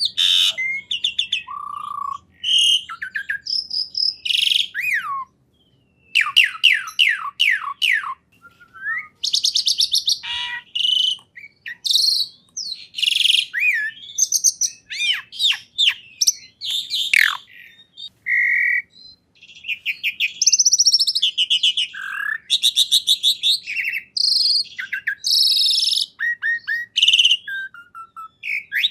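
Songbird singing a long, varied song of rapid trills, quick repeated notes and sweeping whistled glides, with a short break about five seconds in.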